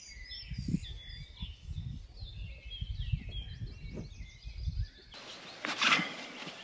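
Small songbirds chirping and twittering, many short calls overlapping, over a low rumble. About five seconds in the sound changes abruptly to a steady hiss with one loud brief whoosh.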